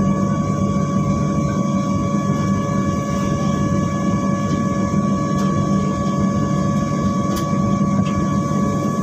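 Steady airliner cabin noise before takeoff: a low, even hum with a constant high whine running through it, from the jet engines and cabin air system. There are no changes in pitch, only a faint tick or two near the end.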